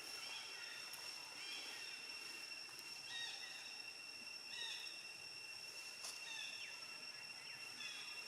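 Faint outdoor ambience: a steady, high-pitched insect drone, with short chirping calls every second or so.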